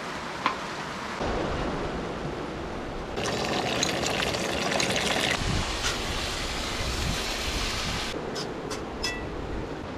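Heavy rain falling steadily. It grows louder about a second in and again about three seconds in, and there are a few light clicks and knocks.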